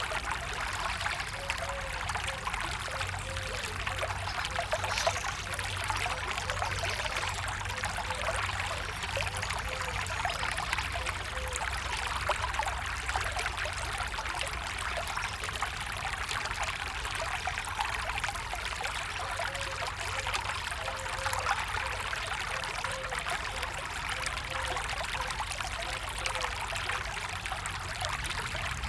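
A small stream running steadily, with a constant rush of water and small gurgles.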